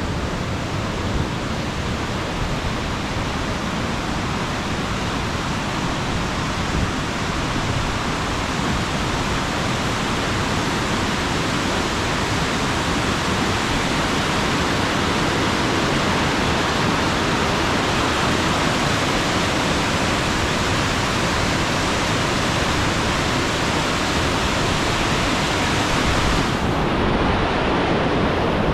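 Steady rushing roar of the Skjervsfossen waterfall, growing slightly louder.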